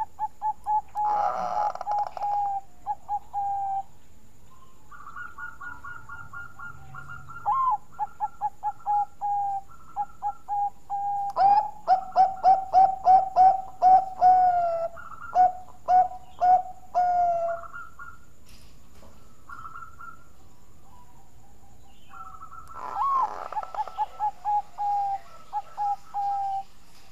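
Bangkok-strain zebra dove (perkutut) singing: several bouts of rapid, stuttering coo notes, each phrase running into a quick string of repeated notes, with short pauses between bouts.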